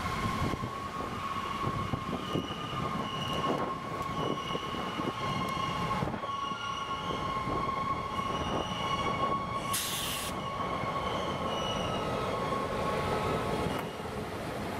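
EMD GP38 diesel locomotive, with its 16-cylinder two-stroke engine, passing close at the head of a train of covered hoppers: the engine is running, with a steady high-pitched wheel squeal and rapid clicking of wheels over the rails. A brief hiss about ten seconds in.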